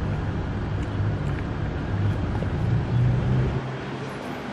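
Low outdoor rumble. The lowest part of it eases off a little near the end.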